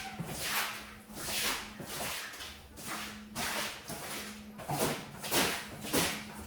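A tool scraping or brushing across a wet, mud-soaked shaggy rug in repeated strokes, roughly one every half second to second.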